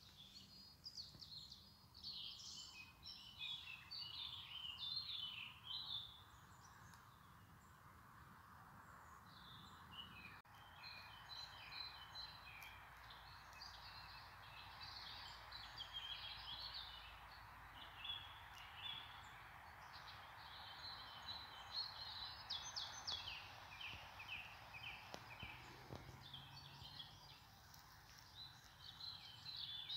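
Faint songbird chirping and twittering, many short calls in quick runs, over a steady hiss.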